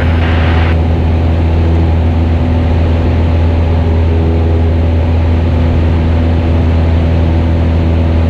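Cessna 172RG's 180 hp four-cylinder Lycoming O-360 engine and propeller droning steadily in flight at constant power after leaving the traffic circuit. A brief hiss at the very start.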